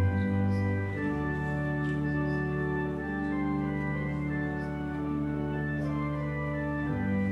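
Church organ playing slow sustained chords, with a chord change about a second in and one long chord held until near the end.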